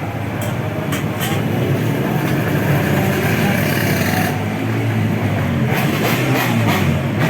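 Underbone race motorcycle engines running in the paddock, a loud, continuous mechanical noise with a few short sharp sounds over it.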